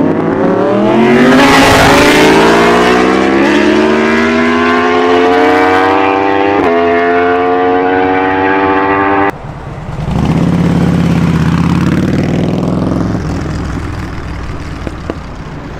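Superbike engine accelerating hard, its pitch climbing steadily, with a short break about six and a half seconds in. It cuts off suddenly about nine seconds in, then a lower engine sound rises and fades away toward the end.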